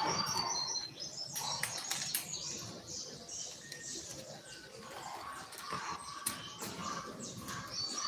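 Double-collared seedeater (coleiro) singing in the 'tui tui' style: runs of quick, high, repeated notes, with scattered short chirps between them.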